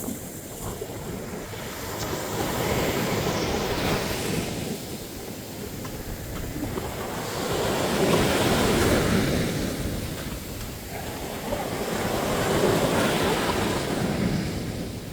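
Sea waves breaking and washing up a sandy beach, the surf swelling and falling back about every four to five seconds, with some wind on the microphone.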